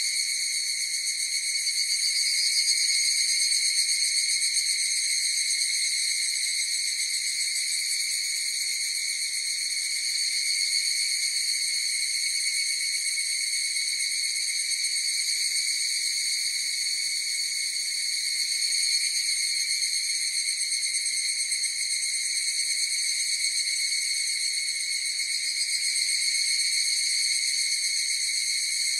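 A chorus of higurashi (evening cicadas, Tanna japonensis) calling together, blending into one continuous high ringing drone that swells and eases slightly.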